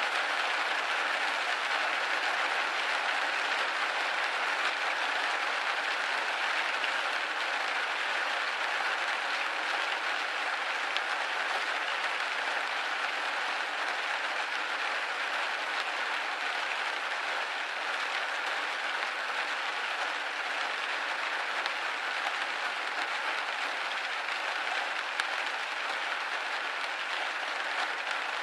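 Steady rain pattering on a window pane, a dense even hiss of drops with no let-up.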